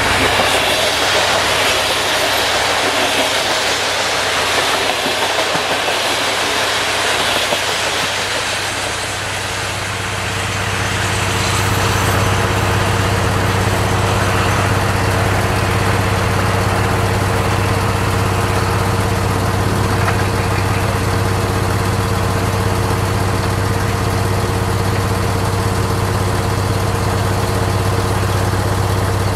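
Passenger coaches rolling past close by with a loud rushing rumble from wheels and rails. About ten seconds in this gives way to a diesel locomotive's engine running with a steady low hum as its train pulls away.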